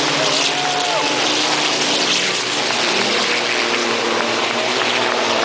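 A pack of Fórmula Truck racing trucks' diesel engines running hard at a race start, a loud steady mass of engine noise with engine tones shifting in pitch.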